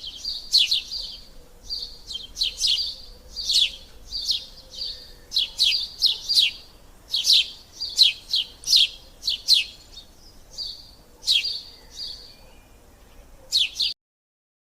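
A bird chirping: a long run of short, sharp, high chirps that slide downward in pitch, several a second, mixed with brief held whistles, cutting off suddenly near the end.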